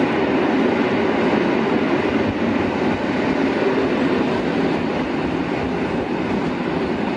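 A train running along the track, a loud, steady rumble of wheels and running gear that holds at an even level throughout.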